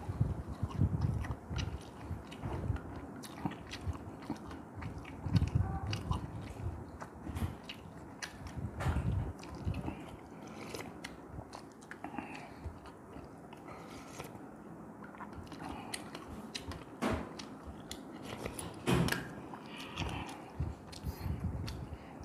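Close-miked chewing and biting of red fish head soup, with irregular mouth sounds and many short, sharp clicks.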